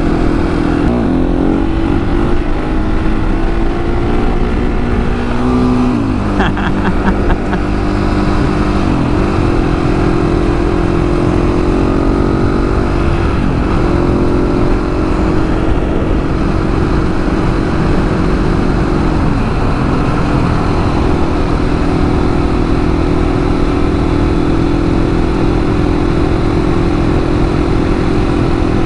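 Husqvarna 701's single-cylinder engine pulling along at road speed with steady revs. The revs dip and recover a few times as the throttle is rolled off and on, over constant low wind rush.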